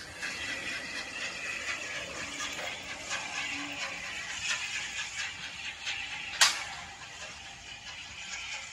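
A train drawing away over a level crossing, its wheels and running gear keeping up a steady clicking rattle on the rails that fades slightly near the end. About six and a half seconds in there is one sharp loud click.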